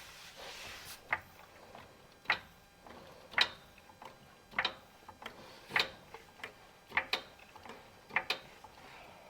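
Hydraulic floor jack being pumped to raise a truck, a sharp click with each stroke of the handle, about one stroke a second.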